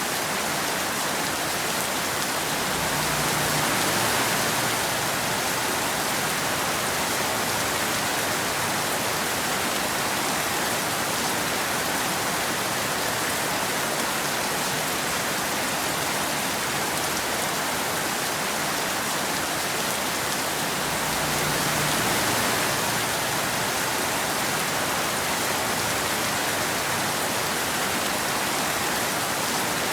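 Steady rain falling, an even hiss that swells slightly twice.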